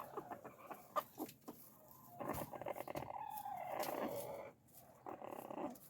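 A chicken purring: a soft, rolling trill about two seconds in that lasts a couple of seconds, with a shorter one near the end. It is the contented sound a hen makes when it is warm enough to purr.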